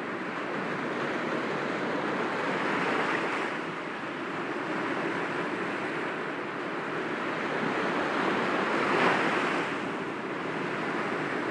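Sea waves breaking gently against rocks: a steady wash of surf. It swells about three seconds in and again, louder, about nine seconds in.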